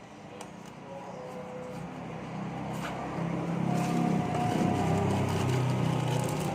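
A motor vehicle engine running, growing louder over the first few seconds and then holding steady, with a few light clicks over it.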